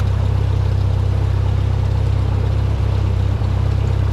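Cessna 172's piston engine and propeller running steadily at low power, a constant low drone with a fine even pulse.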